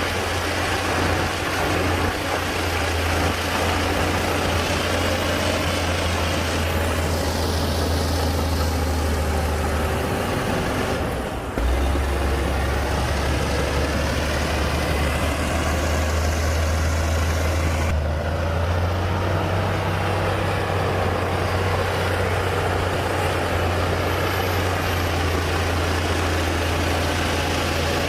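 Heavy diesel engines of earthmoving machinery running steadily with a deep, low hum. The sound dips and then jumps back abruptly about eleven seconds in, and changes sharply again around eighteen seconds.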